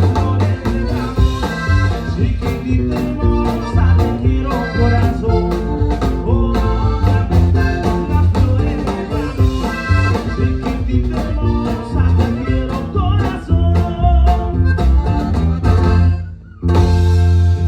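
Live norteño music: accordion leading over strummed strings, electric bass and drums in a steady dance rhythm. The music drops out for a moment near the end and comes straight back in.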